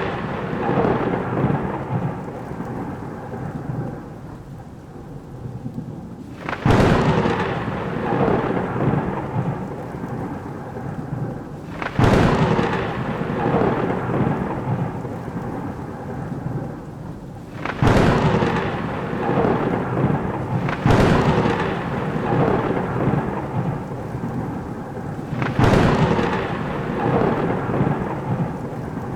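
Thunderstorm: five sharp thunderclaps, each cracking suddenly and rumbling away over a few seconds, over steady heavy rain.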